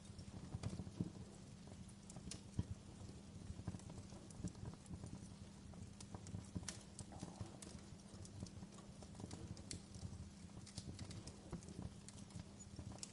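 Wood fire crackling in a fireplace: irregular small pops and snaps over a faint low hum, with a couple of louder pops in the first few seconds.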